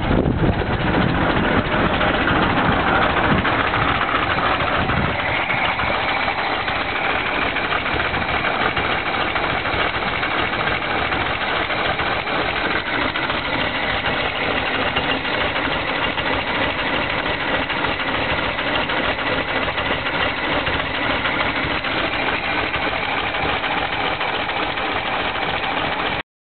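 1927 Ford Model TT truck's original four-cylinder flathead engine, with its cast iron pistons, idling steadily after its first start since 1941. It runs heavier for the first few seconds, then settles.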